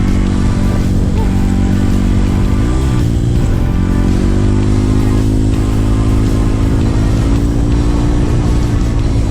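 Trail motorcycle engine running steadily under throttle; the revs drop briefly about three seconds in, then climb again.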